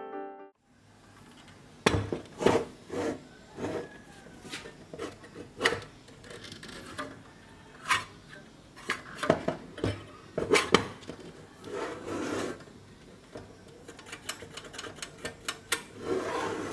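Hands working on an old circular saw: irregular sharp clicks and knocks of parts and tools being handled, with short stretches of rubbing, and a quicker run of small taps near the end.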